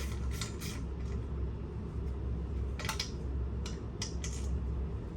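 A few light clicks and taps of metal pump parts and tools being handled, over a steady low hum.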